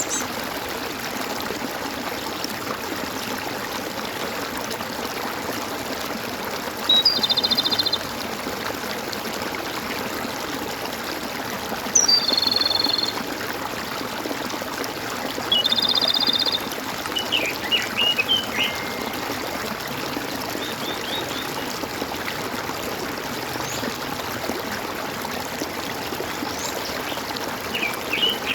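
Water trickling and gurgling steadily, with birds calling over it: three loud steady-pitched calls of about a second each, a few seconds apart, then short bursts of quick chirps near the middle and again at the end.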